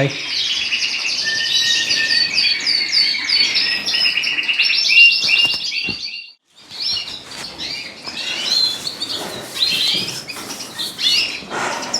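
Caged canaries and finches singing and chirping, with fast trills and quickly repeated high notes. The sound drops out for a moment about six seconds in, then the chirping carries on.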